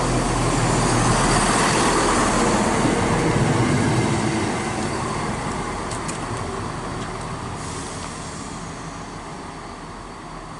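Class 170 Turbostar diesel multiple unit running past at the platform, a rumble of engine and wheels on rail. It is loudest in the first few seconds, then fades steadily as the train draws away from the microphone.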